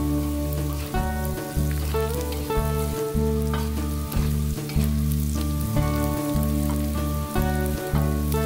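Chillies, shallots and petai beans sizzling in oil as they are stir-fried in a wok, with the metal spatula scraping the pan now and then. Background music with sustained low chords plays under it and is the loudest thing.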